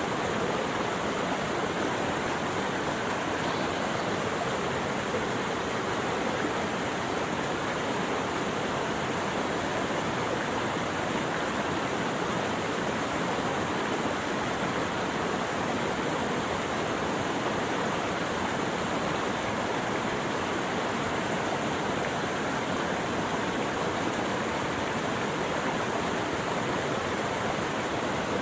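Running water rushing steadily, an even unbroken hiss with no birdsong or other events over it.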